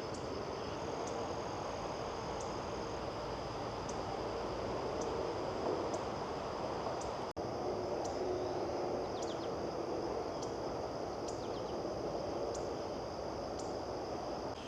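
Summer field ambience: a steady high insect drone with short, high chirps about once a second, and a few brief bird calls partway through, over a steady low rushing noise.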